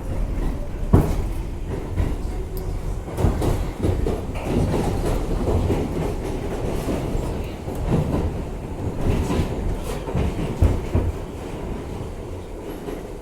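R62A subway car running on the track, its wheels rumbling with irregular clacks and sharp knocks over rail joints.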